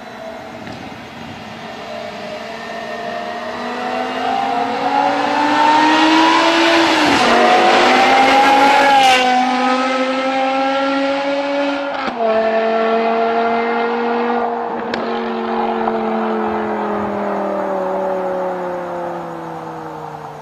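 BMW M6 with an iPE valved exhaust accelerating hard, the engine note climbing and dropping sharply with each quick upshift. After that the revs fall away as it eases off.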